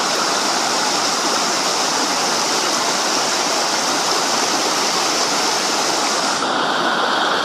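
Waterfall and stream water rushing steadily, close by.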